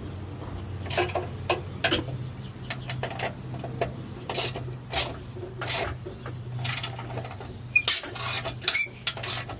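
Irregular metal-on-metal scraping, rubbing and clinking as an exhaust tip and its old, rusty clamp are worked on the tailpipe, with a steady low hum underneath.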